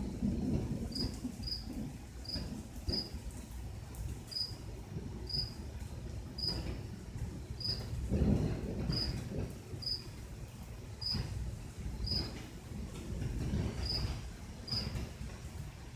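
A cricket chirping, short single chirps about one or two a second, over a low rumble of distant thunder that swells about eight seconds in.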